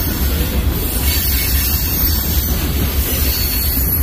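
Freight train of boxcars rolling past, a steady, continuous noise of wheels on rail.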